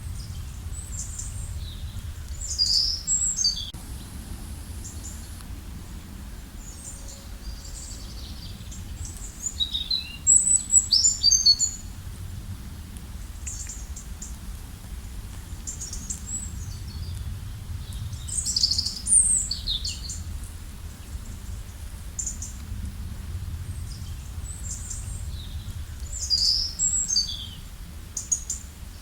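Songbirds singing in the forest: four loud, high phrases that fall in pitch come a few seconds apart, with fainter chirps in between, over a steady low background rumble.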